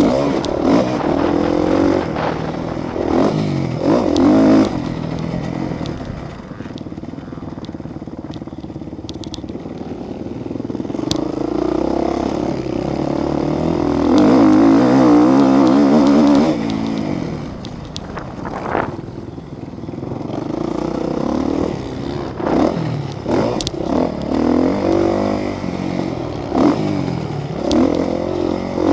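Motocross motorcycles racing, their engines revving up and down as they go past. The loudest pass comes about halfway through.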